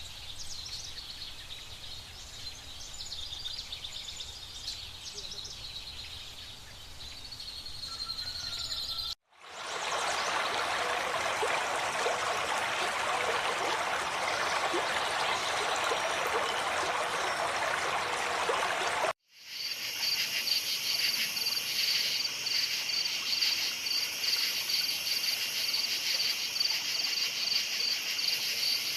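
Nature ambience in three cut-together parts. First comes a faint outdoor background with a few high bird-like calls. About nine seconds in it switches to an even rush of running water. About nineteen seconds in it switches to a steady insect chorus with a fast, even pulse.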